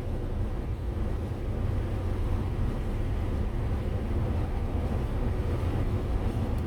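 Camper van driving along the road: a steady, low engine and road rumble.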